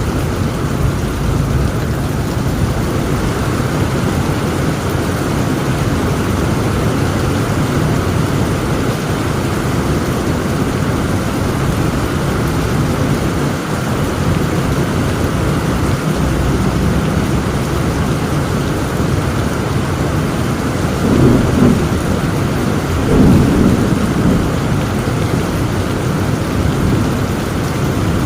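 Heavy rain falling steadily in a thunderstorm, with a constant low rumble of thunder. Two short, louder rumbles come about three-quarters of the way through.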